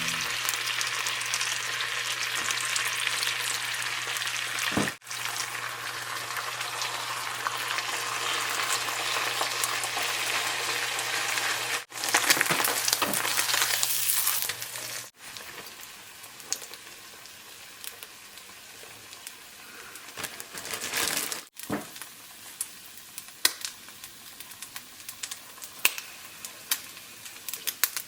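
Food sizzling as it fries in a pan, loudest in the first half and briefly strongest a little after the middle, then settling to a softer sizzle with scattered small clicks of a utensil on the pan.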